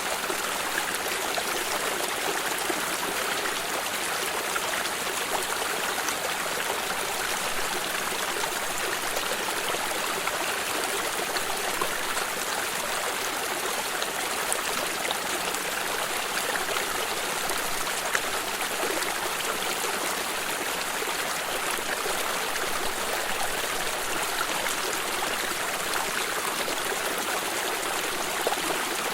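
A water stream running steadily, a continuous rushing and trickling with small splashes.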